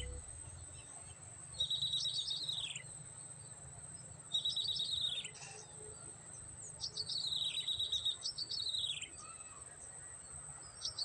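Prinia (prenjak) songs: repeated phrases a couple of seconds apart, each a rapid even trill on one pitch that breaks into a run of falling notes. A steady high insect whine runs behind them.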